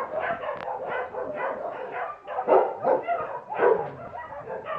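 Dogs barking and yipping in quick succession, two or three calls a second.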